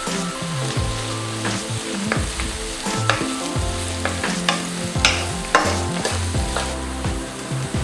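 Chopped onions sizzling in hot oil in a wok while a wooden spatula stirs them, scraping against the pan in irregular strokes.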